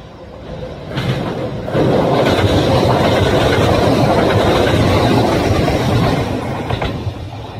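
A train running on rails, a loud rushing rumble with rail clatter that jumps up sharply about two seconds in, holds steady, then fades near the end.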